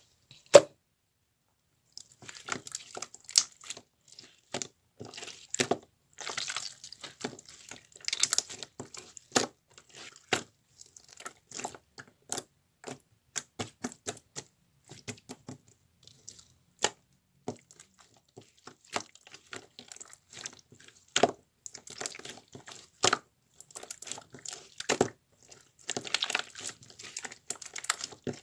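Slime being squeezed, poked and stretched by hand, giving irregular sharp clicks and pops, with denser crackly runs a few times.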